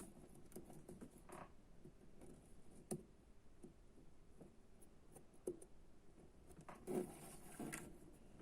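Faint, scattered light clicks and taps of small parts and hand tools being handled, with a brief louder scrape or rustle about seven seconds in.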